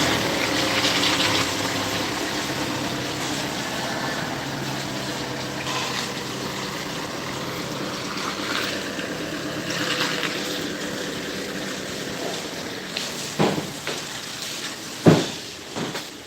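Truck engine idling under a steady hiss, the engine fading about twelve seconds in, followed by two sharp knocks, the second the loudest.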